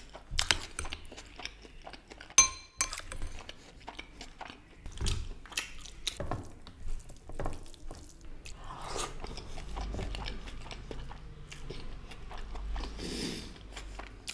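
Close-miked chewing and wet mouth sounds of a person eating biryani: rice and meat, many short smacks and clicks. There is a short ringing clink about two and a half seconds in.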